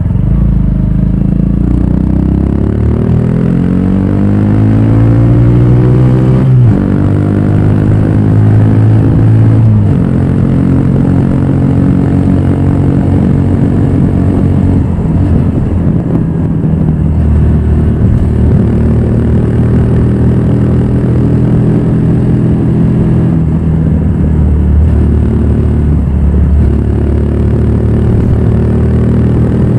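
Honda Grom's single-cylinder engine running through a Yoshimura full exhaust, revs climbing steadily for the first several seconds, dropping suddenly about six and a half seconds in and again about ten seconds in as it shifts up, then holding at fairly even revs with small rises and falls.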